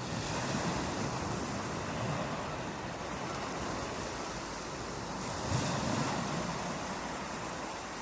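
Steady rush of water, an even hiss over a low rumble with only slight swells in loudness.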